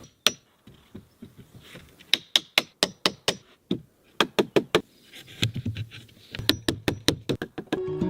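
Hammer blows on timber, struck in quick runs of several knocks with short pauses between the runs.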